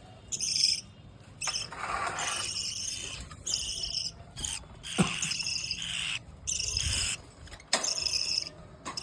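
Budgerigars chirping in repeated short, high-pitched bursts, with a brief lower warble about two seconds in and a sharp click about five seconds in.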